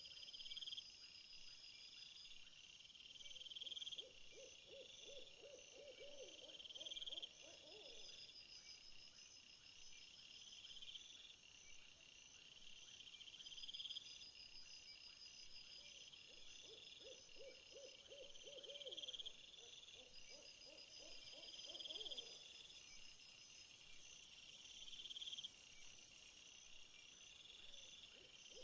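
Faint night-time animal sounds: high insect chirps repeating steadily, and twice a lower pulsed trilling call lasting several seconds. A high, thin insect buzz joins for several seconds past the middle.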